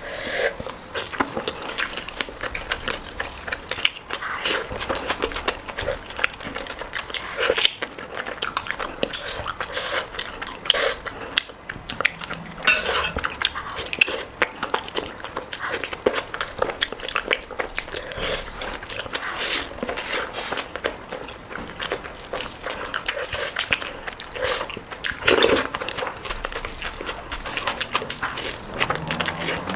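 Close-up eating sounds: a person chewing and biting mouthfuls of a curry-and-rice meal, with a dense run of irregular wet smacks and clicks.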